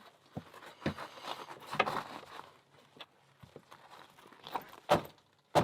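Lock parts and small tools handled with gloved hands: scattered sharp clicks and taps, the loudest two near the end, with a stretch of rustling about a second in.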